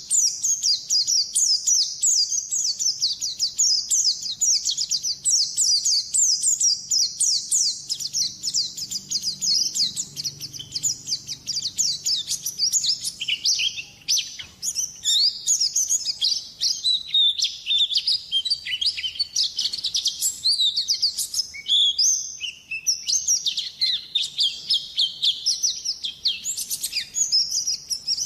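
White-eye (pleci) singing a long, fast, unbroken run of high chirps and trills, the continuous full song that bird keepers call gacor.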